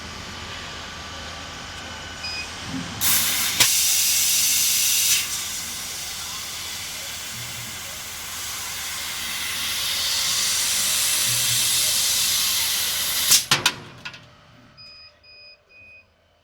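Mixed CO2 laser cutting machine cutting metal plate, with a steady hiss of gas at the cutting head. The hiss is much louder for about two seconds starting three seconds in, swells again in the middle, and stops after a few sharp clicks. Three short beeps follow near the end.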